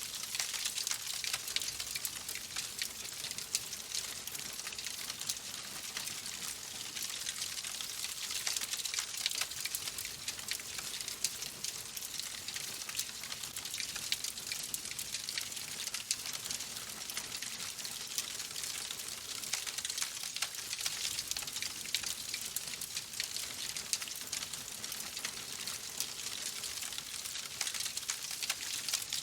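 Fireplace fire crackling: a dense run of small pops and snaps over a steady hiss.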